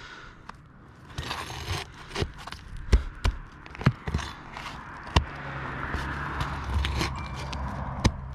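Roofing tool scraping and knocking against roof shingles while nails are worked loose and pried out, with several sharp knocks between stretches of scraping.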